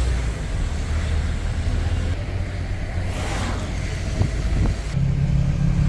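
Steady low rumble of a vehicle's engine and road noise heard from inside the moving vehicle, with a brief rushing hiss about three seconds in.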